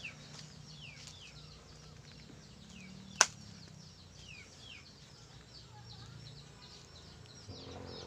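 Birds chirping, many short falling notes repeated throughout, with one sharp click just after three seconds in.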